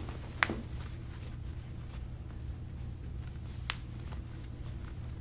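A sharp joint crack from a chiropractic spinal adjustment about half a second in, and a fainter short click a few seconds later, over a steady low room hum.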